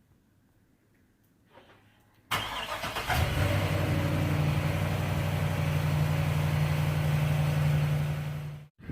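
Chevrolet Silverado 2500HD pickup's engine cranking and catching a little over two seconds in, then settling into a steady idle. It stops abruptly just before the end.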